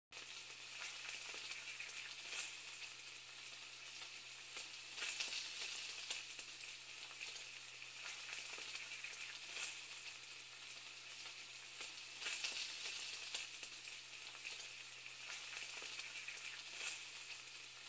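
Food frying in a pan: a steady sizzle with crackles and a few louder pops every few seconds.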